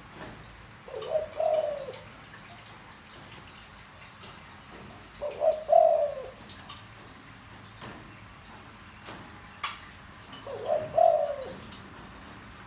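Spotted dove cooing in a deep voice: three coo phrases, each about a second long, spaced roughly five seconds apart.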